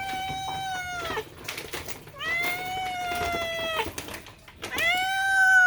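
Domestic cat wailing for food: three long, loud meows, each rising at the start, held steady and dropping off at the end, the last one the loudest. A siren-like begging yowl at feeding time.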